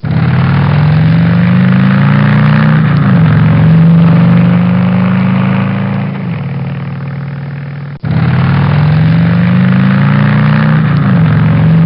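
Motorcycle engine running, its pitch climbing slightly and then dropping back as it eases off the throttle. The sound cuts off abruptly about eight seconds in and restarts, repeating the same rise and drop.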